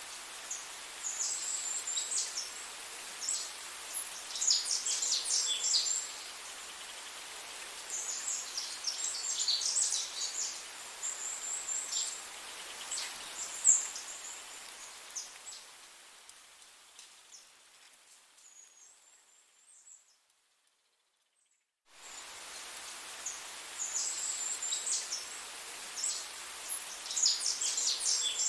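Small songbirds singing in clusters of high, quick chirps and trills over a steady background hiss. The sound fades out about two-thirds of the way through, goes silent for about two seconds, then the birdsong and hiss start again.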